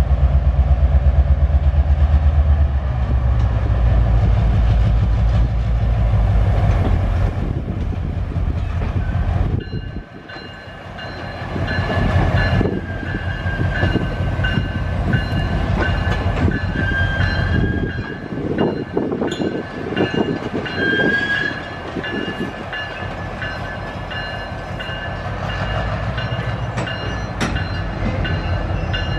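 A train passing. For the first ten seconds or so the locomotive's engine makes a heavy, pulsing rumble. Then the cars roll by with repeated clicking and clunking over the rail joints and a high, wavering wheel squeal.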